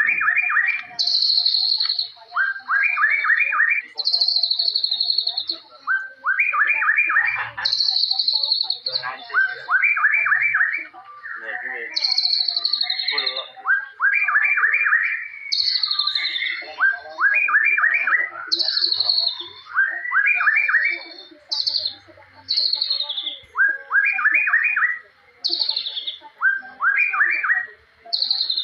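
White-rumped shama (murai batu) singing in repeated phrases: a high falling whistle and a quick run of four or five rising notes, the rapid 'tembakan cililin' shots, coming back every two to three seconds.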